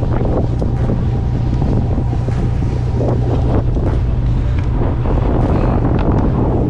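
Wind buffeting the microphone high on a sailing ship's mast: a loud, rough, gusting rumble over a steady low hum.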